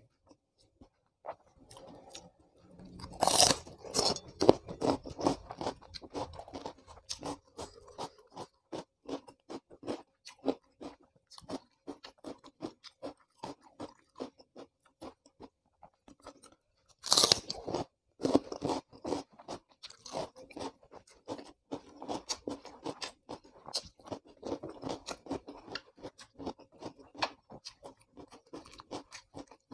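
Raw crunchy vegetables being bitten and chewed: two loud crunching bites, about 3 s and 17 s in, each followed by rapid crunchy chewing that goes on between them.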